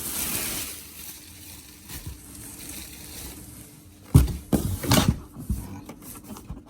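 Handling of the air conditioner's cardboard packaging: rustling at first, then a few loud knocks and thumps about four and five seconds in, with lighter clicks after.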